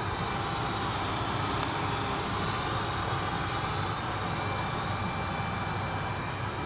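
Steady drone and rushing air of the ventilation and equipment-cooling system in a parked Boeing E-3A Sentry's cabin, with faint high whines held throughout.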